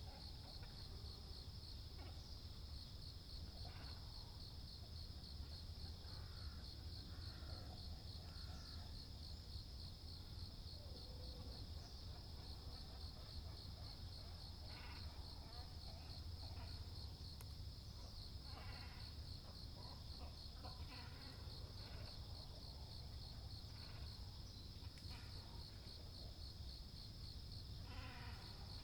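A steady, high, pulsing insect trill runs throughout. Over it come scattered short, harsh calls of great cormorants and herons, the loudest near the end.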